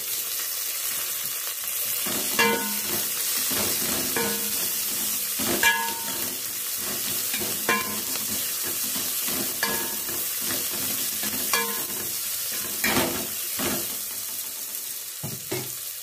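Sliced onions, dried red chillies and curry leaves sizzling in hot oil in an aluminium pot, with a metal ladle stirring and knocking against the pot about every two seconds, each knock ringing briefly.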